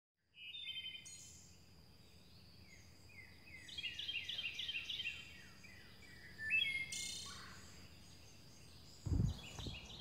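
Birds singing: scattered chirps, then a run of short whistled notes that each slide downward, repeated several times in quick succession. A low thump comes near the end.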